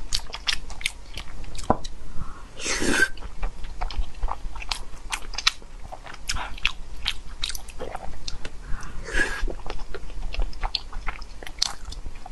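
Close-miked chewing of soft braised meatballs in chili sauce: wet smacking and mouth clicks several times a second, with two longer slurps about three and nine seconds in.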